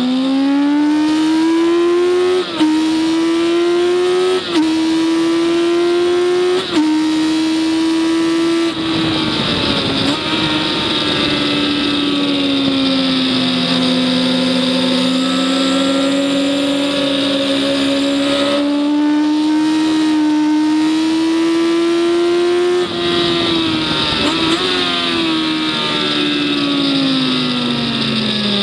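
Racing vehicle's engine lapping a circuit under hard acceleration, changing up quickly three times in the first seven seconds with a brief dip in the note at each shift. It then slows with a rougher, noisier stretch and pulls steadily through a long stretch with the revs slowly climbing. Near the end the revs drop away.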